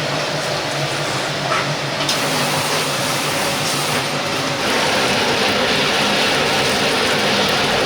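Chicken deep-frying in hot oil: a steady sizzle that gets louder about halfway through.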